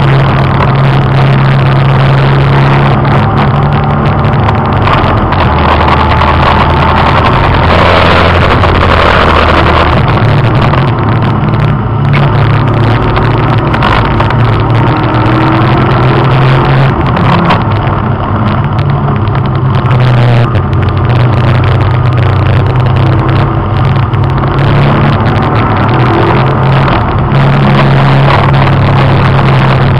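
Race car engine heard loud from inside the cabin while lapping a circuit, its pitch stepping and shifting as the car accelerates, changes gear and slows for corners.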